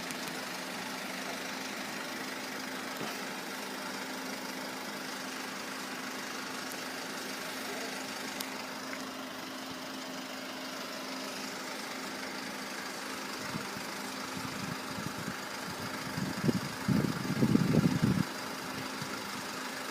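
A vehicle engine idling steadily with a low hum, with a few louder low rumbles near the end.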